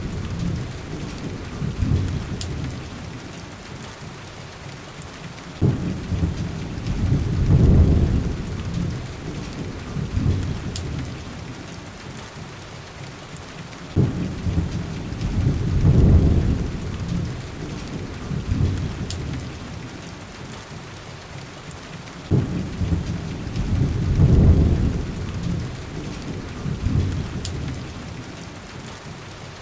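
Steady heavy rain on a window glass with rolling thunder. Three deep rumbles each start with a sudden crack, swell for a couple of seconds and fade, coming back about every eight seconds in a looped pattern.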